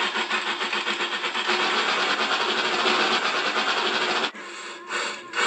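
Train hauling a line of freight trucks: a dense, fast rattling clatter of wheels and wagons that drops away about four seconds in to quieter, evenly spaced pulses.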